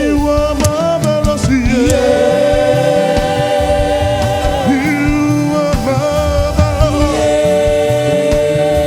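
Gospel choir singing long, held notes.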